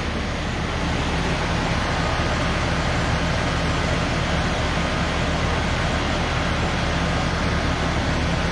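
A large vehicle's engine idling: a steady, even low drone with a wash of noise that does not change.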